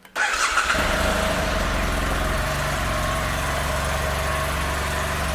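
2015 BMW F800R's 798 cc parallel-twin engine starting about a quarter second in, catching within a moment, then idling steadily.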